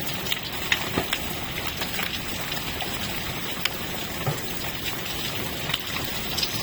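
Hail falling with cold rain: a steady hiss of rain with many scattered sharp ticks of hailstones striking the ground and pavement.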